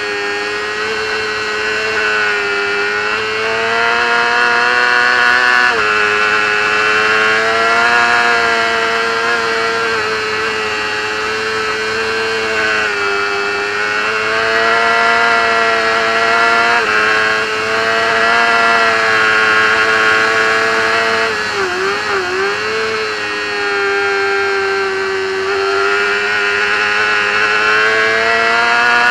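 Racing motorcycle engine heard from an onboard camera, held at high revs at racing speed. The engine note stays high and fairly level, with a few quick small drops in pitch, and a short dip and recovery about 22 seconds in as the throttle is eased and opened again.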